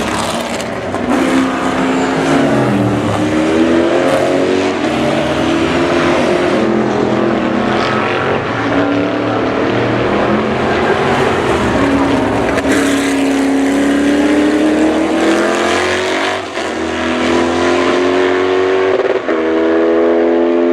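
Race car with a 6.2 L Chevrolet CT525 V8 (McLaren M1C replica) on track, its engine note rising and falling several times, then climbing hard under acceleration with two quick upshifts near the end.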